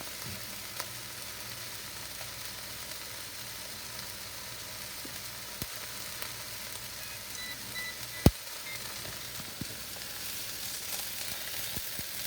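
Chicken breasts sizzling in a hot frying pan, a steady frying hiss at the end of their searing, with a few light clicks and one sharp knock about eight seconds in.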